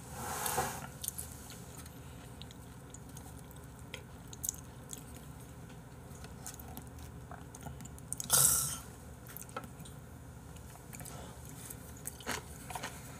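Close-miked chewing of raw beef liver and omasum, with small wet mouth clicks. A brief breathy burst of noise comes at the start and a louder one about eight seconds in.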